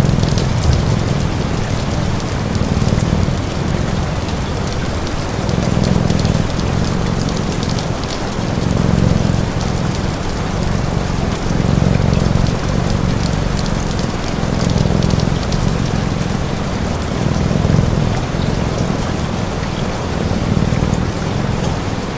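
Steady rain falling, with a cat purring underneath in slow swells about every second and a half.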